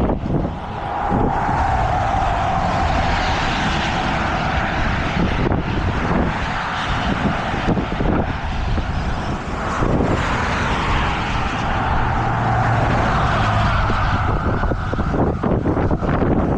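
Heavy truck engines running alongside a road, with traffic going by; a whine swells and fades twice, once near the start and once past the middle.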